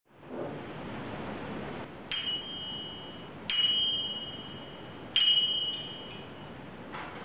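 Three sharp strikes, each ringing out with a high, steady tone for about a second, like a small bell or struck piece of metal, over a steady hiss. A fainter fourth tap comes near the end.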